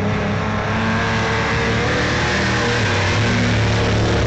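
Engines of several vintage race cars running together during a race, several engine notes overlapping and shifting slightly in pitch.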